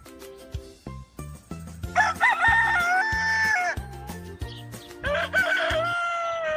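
Rooster crowing twice: each crow is a long call that rises at the start, holds, and falls off at the end. The first comes about two seconds in, and the second begins about five seconds in.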